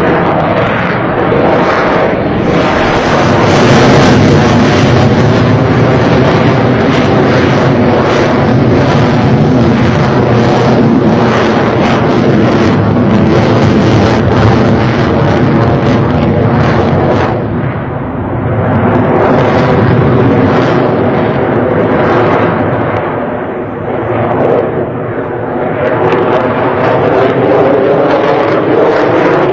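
Sukhoi Su-57 jet fighter's engines running loud and continuous, dipping briefly about eighteen and twenty-four seconds in before swelling again.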